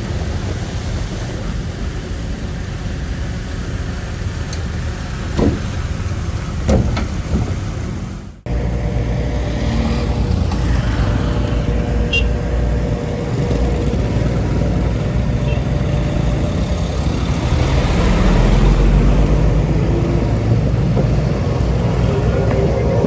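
Diesel engines of heavy earthmoving machines running, a steady low rumble, with two short knocks in the first half and an abrupt cut about eight seconds in.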